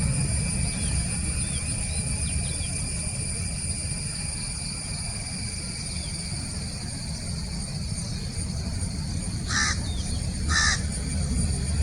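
A crow cawing twice, about a second apart, near the end, over a steady low rumble.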